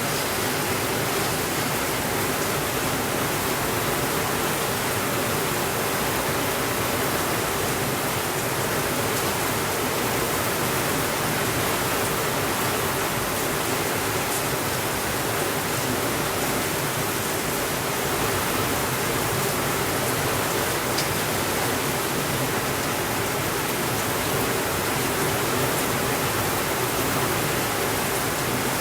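Steady rainfall, an even rushing hiss with no thunder, with a few faint crackles from a fireplace.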